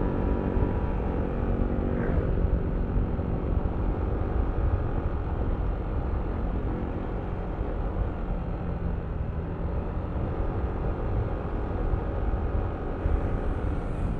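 Yamaha Aerox V3 scooter's single-cylinder 155 cc engine running steadily under way, with a heavy low rumble of wind on the microphone.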